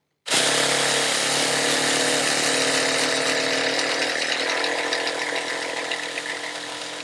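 Electric starter spinning a nitro RC car engine over without it firing, a steady whirring drone that starts suddenly and cuts off abruptly near the end. The engine is being cranked to draw fuel up the line into the carburettor before starting.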